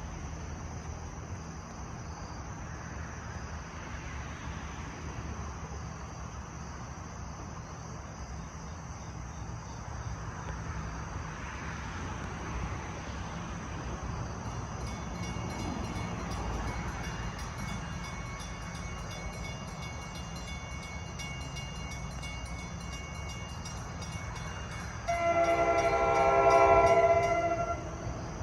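A train approaching a grade crossing: a steady low rumble, with a grade-crossing bell ringing from about halfway. Near the end the NJ Transit ALP-45A dual-mode locomotive sounds one loud horn blast lasting about two and a half seconds.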